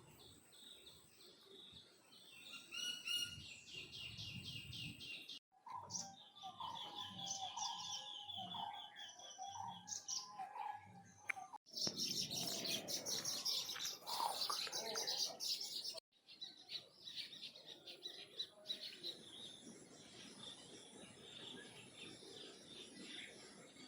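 Wild birds chirping and calling in a few short cut-together stretches: a rapid run of repeated high chirps, then warbling notes, then dense high chatter. In the last third a steady high insect buzz sits under scattered chirps.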